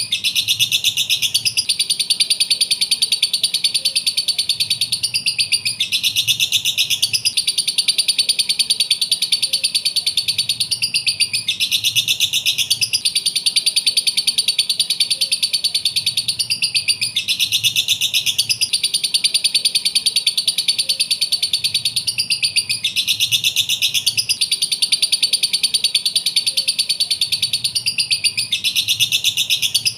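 Lovebird chattering and chirping nonstop in rapid, high-pitched trills, a short recording looped so the same passage repeats about every six seconds.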